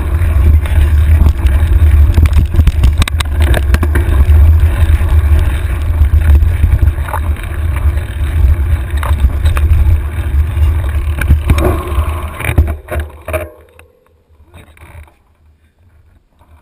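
Wind buffeting the microphone of a handlebar-mounted camera on a mountain bike riding fast down a rough trail, with frequent knocks and rattles from the bike. It cuts off sharply about twelve to thirteen seconds in as the bike slows to a stop.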